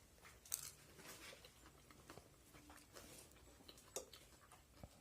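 Faint mouth sounds of a person biting and chewing a fresh green chili pepper: a few soft clicks and crunches, the sharpest about half a second in and again near four seconds.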